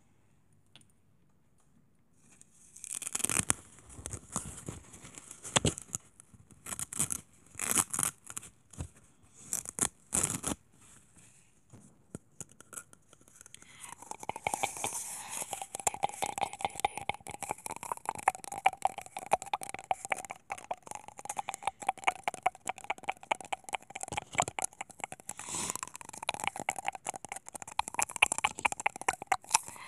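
Close-miked ASMR handling sounds: after a short hush, separate bursts of crinkling or tearing noise, then from about halfway a continuous rapid crackle with a steady faint hum in it.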